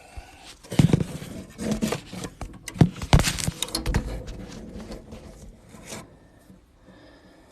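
Handling noises: a run of clicks, knocks and scraping as hands work with tools and parts in a furnace cabinet, busiest in the first four seconds, then fainter.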